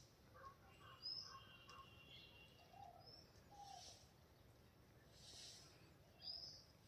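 Faint calls of several birds in the open: short high chirps that come and go a few times, with a quick run of lower notes near the start and a couple of softer calls about three seconds in.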